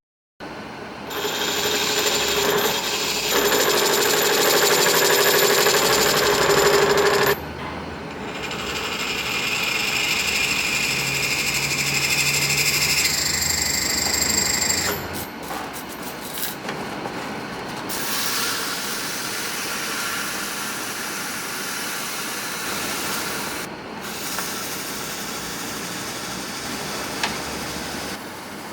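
Power tools working metal in several short stretches, each with its own whine and grinding noise, changing abruptly a few times.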